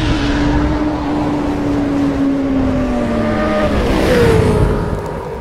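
A vehicle engine running, its pitch sinking slowly, then jumping higher about four seconds in.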